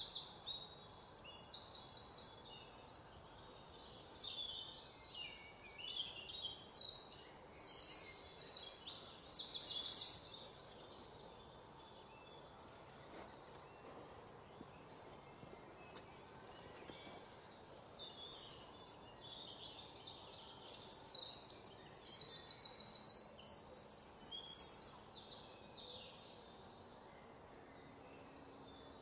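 Songbird singing in bouts of high, rapid trilled phrases a few seconds long, with scattered softer chirps between the bouts.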